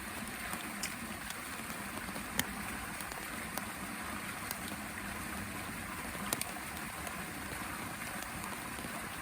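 Steady rain falling, an even hiss broken by scattered sharp ticks of drops, two of them louder, about two and a half and six seconds in.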